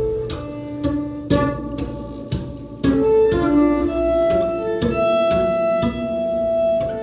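Acoustic guitar and violin improvising together: sharp plucked and struck guitar notes over held violin tones, with sustained notes growing longer from about three seconds in.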